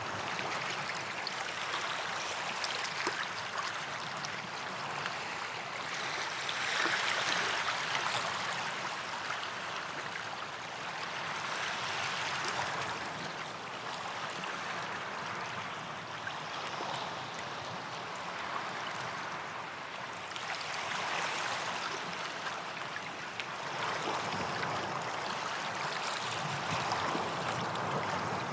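Small sea waves washing up onto a sandy beach, the surf swelling and easing several times.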